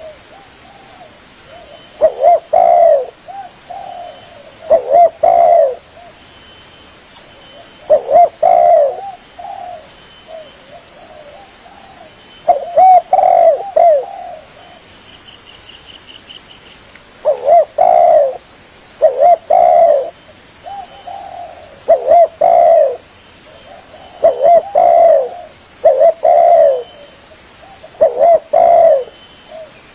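Spotted dove (tekukur) singing: loud, repeated phrases of short cooing notes, a new phrase every two to four seconds. A faint, brief high chirping sounds in the background about halfway through.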